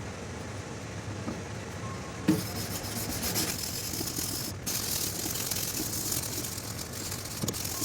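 Sandpaper rubbed by hand along a rusty, pitted steel knife blade: a steady scratchy hiss that starts with a knock about two seconds in, with a brief break around the middle.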